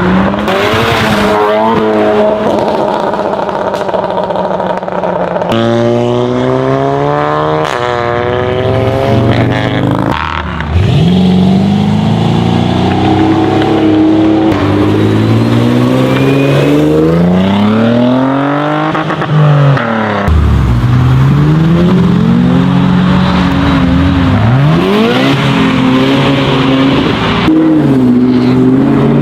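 Several high-performance car engines, one after another, revving and accelerating hard through the gears: the engine pitch climbs, drops at each upshift and climbs again, with some cars sweeping past.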